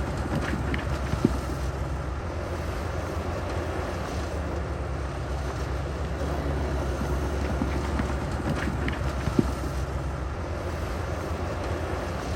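Heavy diesel engine of earthmoving equipment running steadily with a low rumble, with wind noise on the microphone. Two sharp knocks, about a second in and again about nine seconds in.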